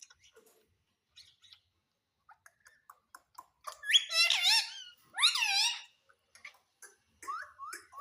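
Indian ringneck parakeet calling: two loud, pitch-bending calls about four and five seconds in, then a few short softer calls near the end.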